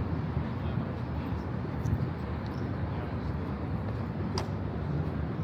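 Steady low rumble of city street traffic, with one short sharp click about four seconds in.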